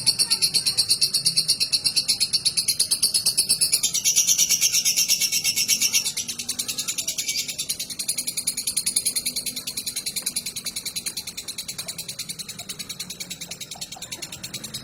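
Female lovebird singing one long, unbroken chattering song of rapid high-pitched pulses, about six a second. This is the long-duration singing that Indonesian bird keepers prize in a 'fighter' lovebird. The song is loudest for the first six seconds, then carries on a little softer.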